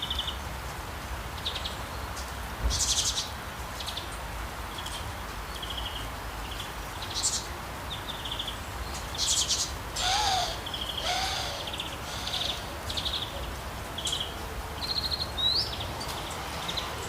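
Several birds chirping and trilling in short, high phrases, with two lower, falling calls about ten seconds in.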